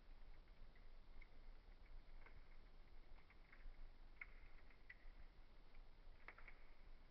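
Wood fire crackling faintly, with scattered small pops and a sharper crack about six seconds in, over a faint low hum.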